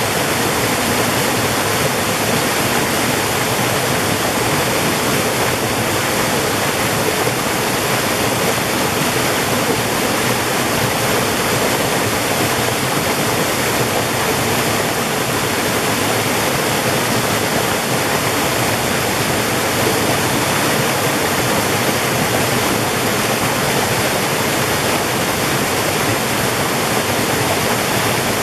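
Mountain valley stream, a steady, even rush of flowing water.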